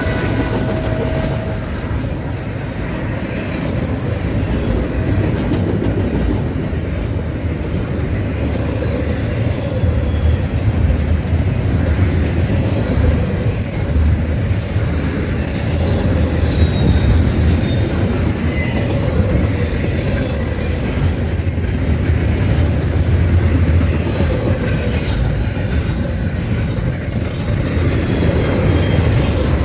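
Train cars rolling past with a steady heavy rumble, faint wheel squeals coming and going, and occasional clicks.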